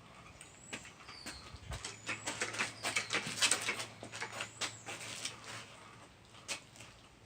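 Scattered light clicks and taps, thickest in the middle, with a few brief high bird chirps.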